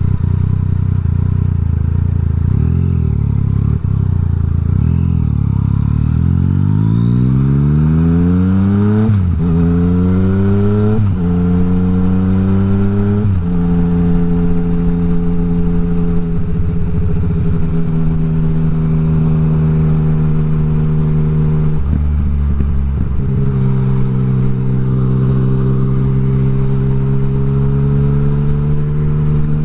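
Yamaha MT-09 inline-three running through an Akrapovic exhaust with the dB killer removed. It pulls through the gears: the engine note climbs and drops back at three quick gear changes, then holds a steady note, dips briefly about two-thirds of the way through, and holds steady again.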